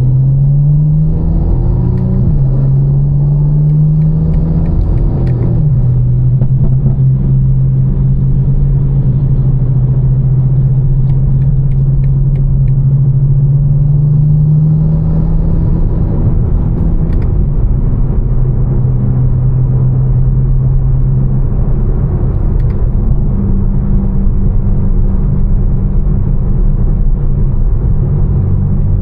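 Tuned BMW M4's twin-turbo straight-six, fitted with catless downpipes and a Fi exhaust, accelerating through two gears in the first few seconds: the pitch rises and falls back at each shift. It then cruises at a steady drone.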